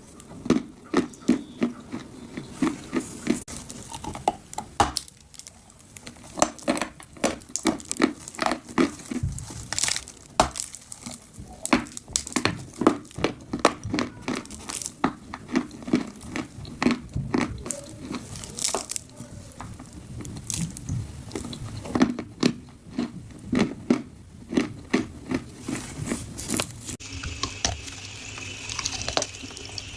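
Dry clay crunching and cracking in a dense, irregular run of crisp snaps, several a second. Near the end a steady hiss joins in.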